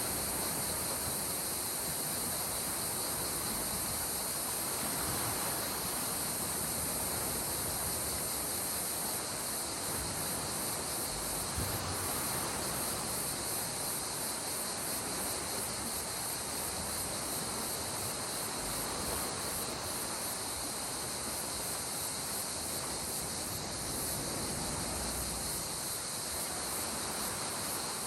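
Gentle sea waves washing in slow swells under a steady, high-pitched insect chorus.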